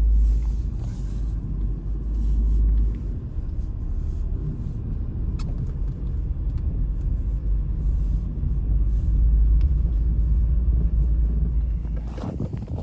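Strong blizzard wind buffeting the microphone: a loud low rumble that swells and eases in gusts.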